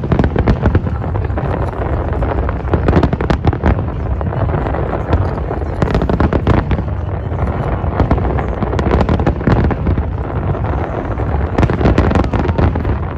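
Fireworks display: a continuous run of sharp bangs and crackling bursts over a low rumble, thickest in a few dense clusters.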